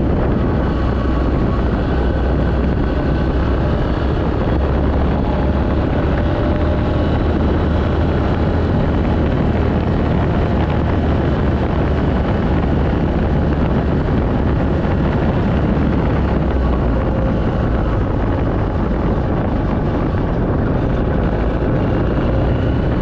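Yamaha XT250 single-cylinder four-stroke engine running at a steady speed while the motorcycle is ridden, with heavy low rumble from wind on the microphone.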